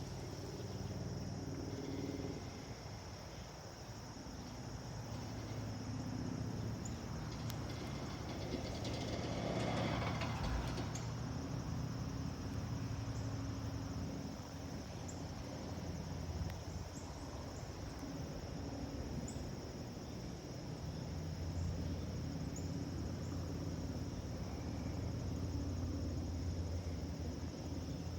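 Low, steady rumble of a jet airliner's engines at a distance, the Airbus A220-300's geared turbofans, with a steady trill of crickets above it. About ten seconds in, a brief swell of rushing noise rises and fades.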